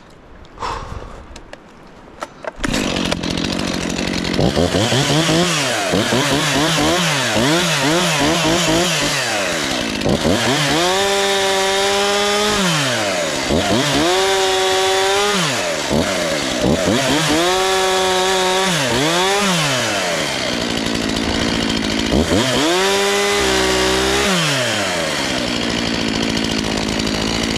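Gasoline two-stroke chainsaw starts about two seconds in and idles briefly. It is blipped up several times, then revved up and held at full speed four times as it cuts through logs for firewood, dropping back between cuts. It settles to idle near the end.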